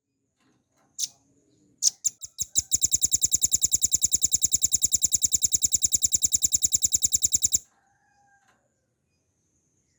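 Velvet-fronted nuthatch singing: one sharp high note, then a few notes that quicken into a fast, even rattling trill of about nine notes a second, which lasts about five seconds and stops abruptly.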